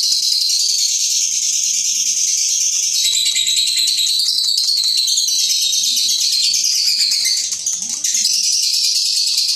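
Lovebird 'ngekek': one long unbroken run of rapid, high-pitched shrill chattering, the continuous song prized in Indonesian bird-song contests. It eases briefly about three-quarters of the way through, then carries on.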